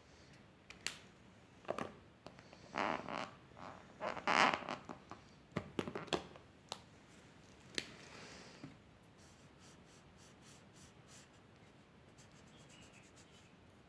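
Drawing on paper by hand: short scratchy strokes and sharp taps of a drawing tool, busiest in the first two thirds, then fading to faint small ticks.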